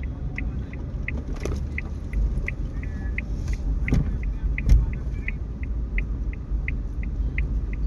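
Low road rumble inside a moving car, with short high-pitched ticks repeating steadily about three times a second, like an indicator ticking. A few dull thumps come through, the loudest a little before the five-second mark.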